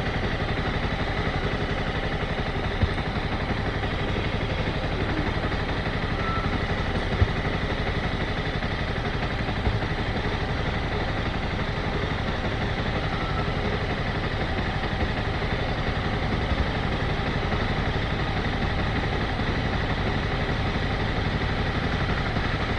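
Motorcycle engine running steadily at low, idle-like revs with no revving, and a few brief knocks over it.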